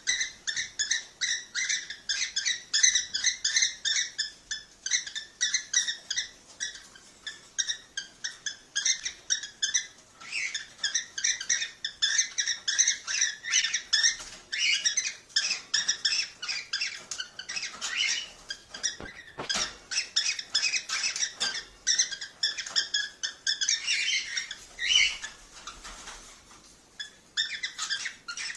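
Cockatiels chirping: a fast, continuous stream of short, high chirps, several a second, with a brief lull near the end.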